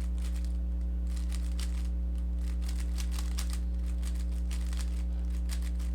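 Rubik's cube being turned by hand through an algorithm: quick, irregular runs of plastic clicks and clacks as the layers turn. A steady low electrical hum sits underneath.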